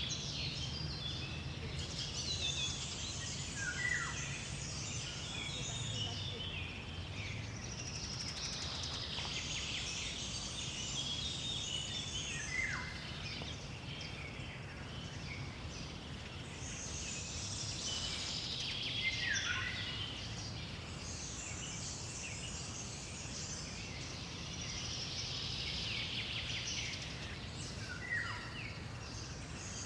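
Songbirds singing in bouts of a few seconds, repeating about every eight seconds, each song ending in a short falling note, over a steady low background hum.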